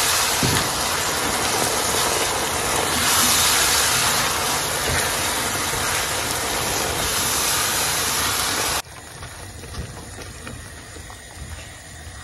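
Loud, steady sizzling of a wet blended vegetable-and-herb paste that has just gone into hot coconut oil, stirred with a spatula. About nine seconds in it drops abruptly to a much quieter sizzle.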